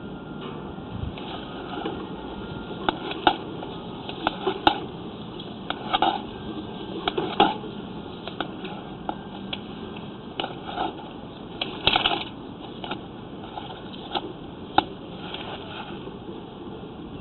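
Irregular clicks and knocks over a steady hiss, typical of a sewer inspection camera's push cable being fed and handled.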